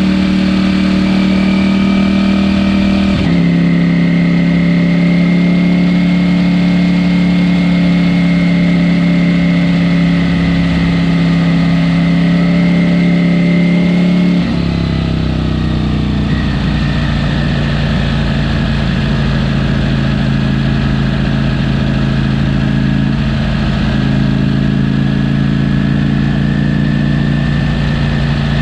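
Ducati Panigale V4 S V4 engine through its stock exhaust, running at steady cruising revs. The engine note dips slightly about three seconds in, drops lower about halfway through, and then holds steady.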